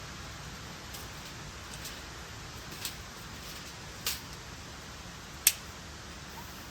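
Steady background hiss with three sharp clicks or taps, about three, four and five and a half seconds in; the last is the loudest.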